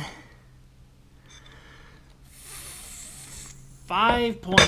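A man's long breathy exhale, then a short voiced sound and a sharp click near the end.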